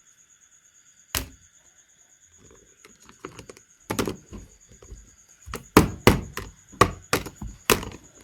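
A series of sharp knocks and taps: one about a second in, then a quickening run of a dozen or so in the second half, over a faint steady high-pitched tone.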